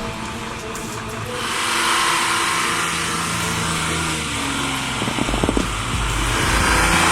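A motor vehicle driving, its engine running with a broad rush of noise that swells about a second in; a brief cluster of knocks a little past the middle.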